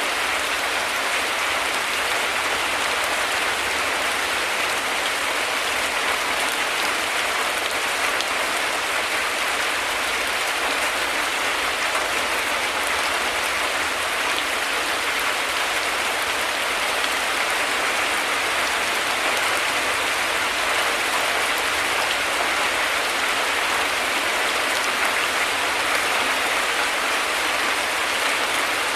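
Heavy rain falling steadily, a dense, even hiss of drops that stays unchanged throughout, with no thunder.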